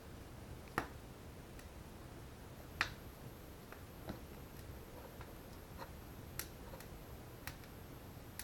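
Wood fire crackling in a fireplace: a few sharp, irregularly spaced pops over a faint steady hiss, the loudest two near the start.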